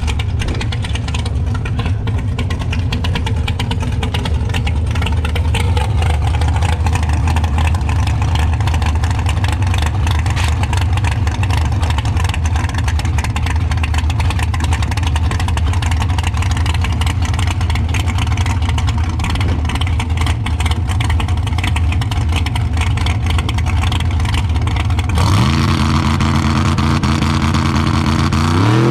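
Twin-turbo Buick Grand National's engine running loud and steady at a constant speed. About 25 s in it revs up, its pitch climbing.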